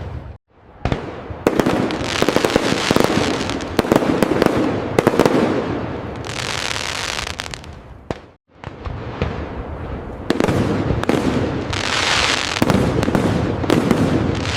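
Fireworks display: a continuous run of aerial bursts with many sharp bangs and dense crackling. The sound briefly cuts out to near silence just after the start and again about eight seconds in.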